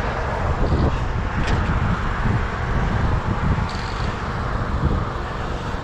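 Rumbling outdoor noise of wind on the microphone and road traffic, with a brief click about one and a half seconds in.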